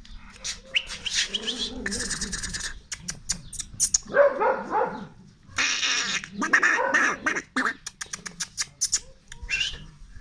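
Young puppies whining and yelping in high, wavering calls, with sharp clicks and knocks scattered among them.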